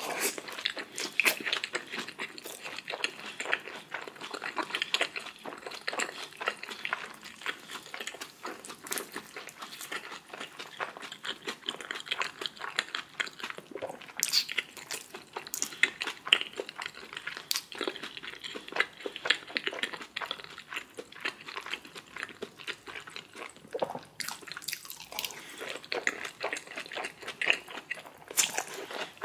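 A person chewing food close to the microphone: a continuous run of wet mouth clicks and smacks with some crunching.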